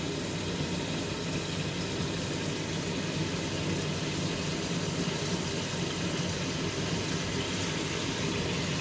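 Chicken pieces frying in oil in an aluminium pot: a steady sizzle, with a steady low hum underneath.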